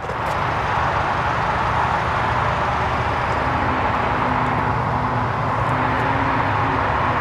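A car's engine, the 1.6-litre turbocharged four-cylinder of a 2020 Hyundai Sonata Limited, starts up and runs steadily. The noise comes on suddenly and then holds as a steady rushing sound over a low rumble.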